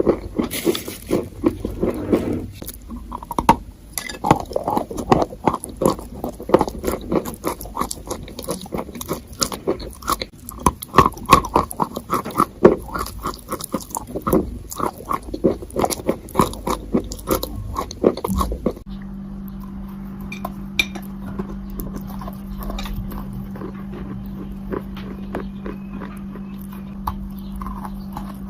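Close-up chewing, a dense run of irregular crunchy clicks. About two-thirds of the way through it cuts off suddenly, giving way to a steady low hum with a few scattered clicks.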